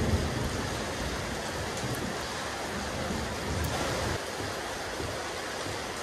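Steady rain falling on a rooftop terrace, an even hiss of water, with the tail of a low thunder rumble fading out right at the start.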